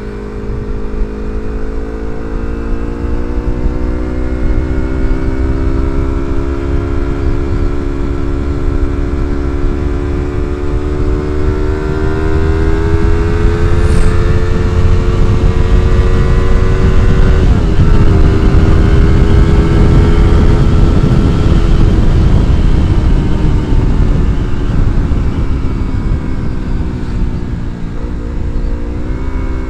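Yamaha MT-25's parallel-twin engine through an R9 aftermarket exhaust, pulling under throttle while riding. Its pitch climbs slowly for about a quarter of a minute, dips briefly about halfway through, then holds and eases off a little. Wind rushes over the microphone at speed.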